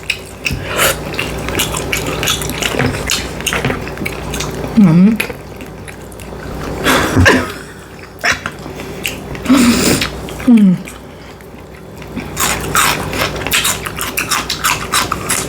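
Close-miked eating sounds: chewing and wet mouth sounds with repeated sharp clicks of cutlery on a plate, as someone eats sausage, eggs and bacon. A few brief low vocal sounds dip and rise in pitch.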